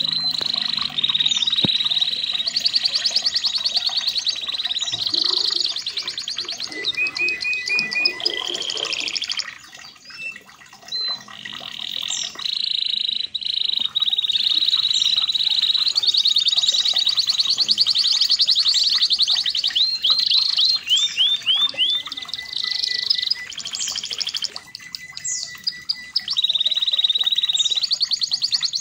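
Red canary singing a long, continuous song of rapid trills and fast repeated-note rolls, with a short break about ten seconds in.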